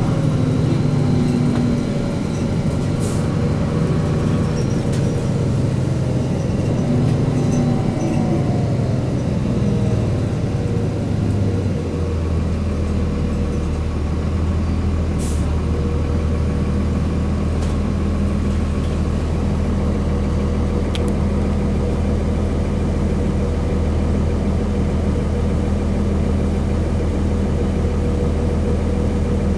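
Bus's Cummins ISC diesel engine running. Its pitch shifts and falls over the first dozen seconds as it winds down, then it settles into a steady low idle.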